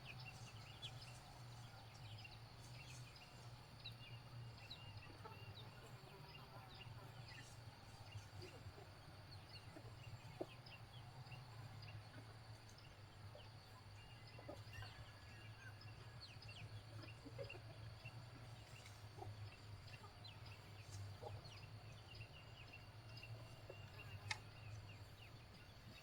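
Faint, scattered clucks and short chirps from chickens over a low steady hum.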